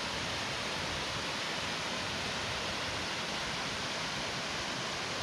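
Mountain stream water rushing steadily, an even hiss that neither rises nor falls.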